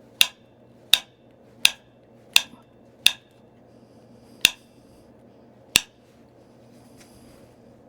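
Stone point being knapped: seven sharp, glassy clicks, about one every two-thirds of a second with a short pause before the last two, as flakes are struck or pressed off the stone.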